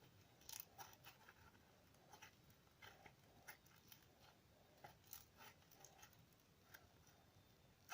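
Faint, irregular little clicks and crackles of soft slime being pressed and squeezed between the fingers.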